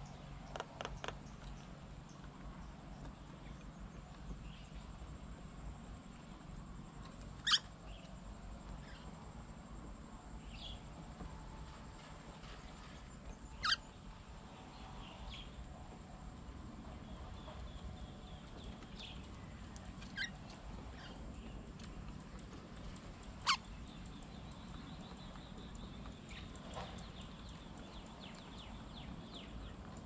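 Quiet outdoor background with scattered short bird chirps, three of them louder and sharp.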